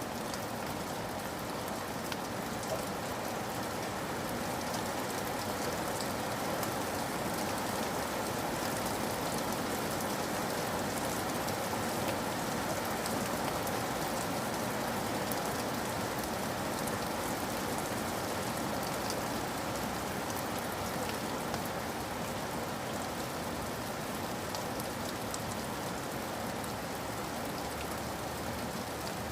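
Steady rain falling, an even hiss of rain with many small drop ticks scattered through it and no change in strength.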